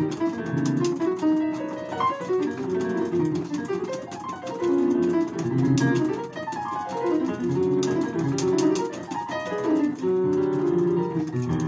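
Instrumental music: a fast, busy run of plucked-string notes, with sharp clicks among them.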